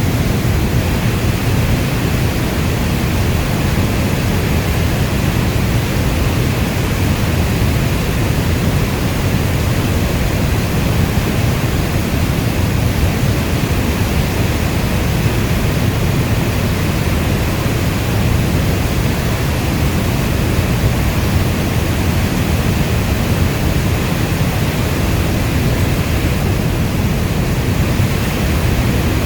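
Steady rainfall as an even, unbroken hiss, weighted heavily toward a deep low rumble like brown noise.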